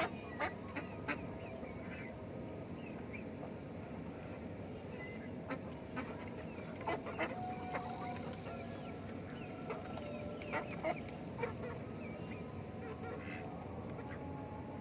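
Chickens and ducks calling while they feed: scattered short clucks and honking quacks, one call held a little longer about seven seconds in, over a steady background hiss.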